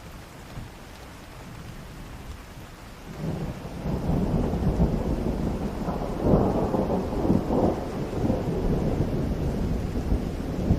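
Rain falling steadily, then about three seconds in a long, low roll of thunder builds and keeps rumbling, loudest around the middle.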